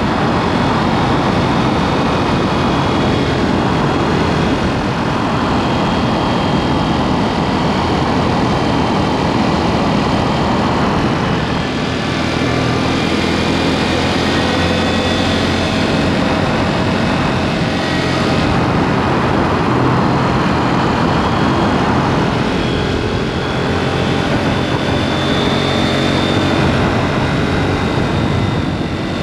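KTM 790 Duke's parallel-twin engine running under way through a SpeedPro Cobra SPX aftermarket exhaust, the revs rising and falling, with rushing wind and road noise.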